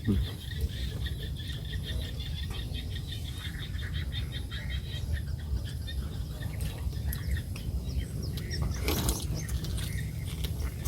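Birds chirping in a fast trill over a steady low rumble, with a short rustle about nine seconds in.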